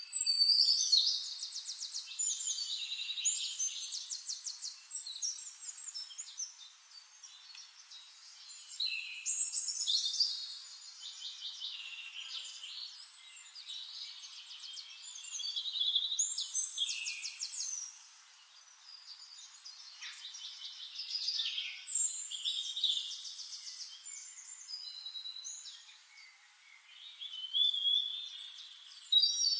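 A songbird singing: loud phrases of rapid trills and chirps come back every six to seven seconds, with quieter calls between them.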